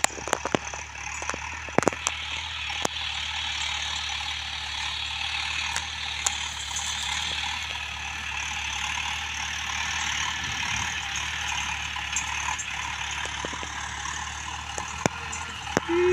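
Steady outdoor background noise: a low hum under an even hiss, with a few sharp clicks in the first three seconds.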